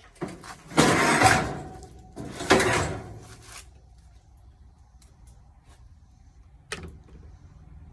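Two loud scraping, rattling spells of washing-machine parts being worked loose by hand during dismantling, then a single sharp knock near the end.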